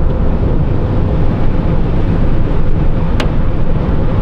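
Steady low rumble of a car driving, as heard inside the cabin, with a single short click about three seconds in.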